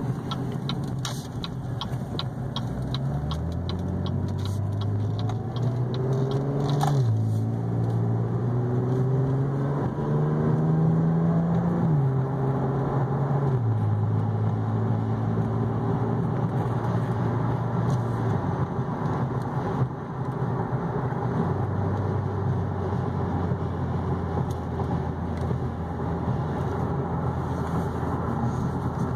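Cadillac ATS V6 engine heard from inside the cabin, pulling hard as the car accelerates: the engine note rises, drops at an upshift about seven seconds in, rises again, then drops at a second upshift about twelve seconds in. It then settles to a steady cruise with road noise. A regular ticking runs through the first several seconds.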